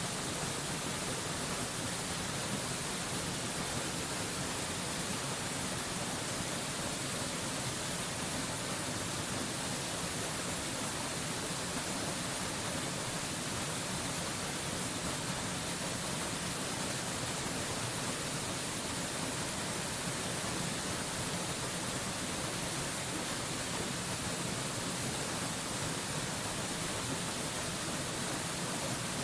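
Steady rushing of a waterfall, an even, unbroken hiss with no changes.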